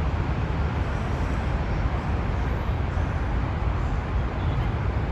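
Steady outdoor background noise: a heavy, uneven low rumble under an even hiss, with no clear single event.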